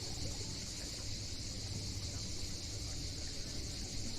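A steady, high insect chorus over a low, even wash of sea waves.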